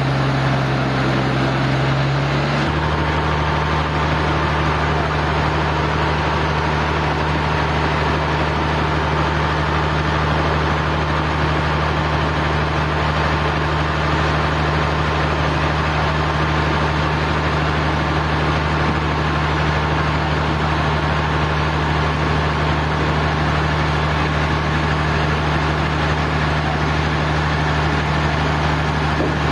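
Sawmill machinery running steadily: a loud, even engine-like drone with a low hum. Its pitch shifts abruptly about three seconds in, then holds unchanged.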